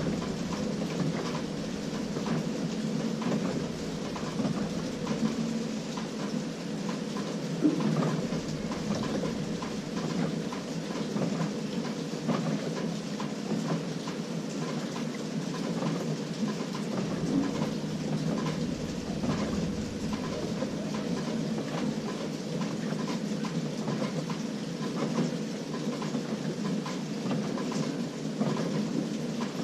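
LG 18 kg top-load washing machine running its delicate cycle: water and clothes churning in the drum over the motor, with a faint steady hum and small irregular knocks.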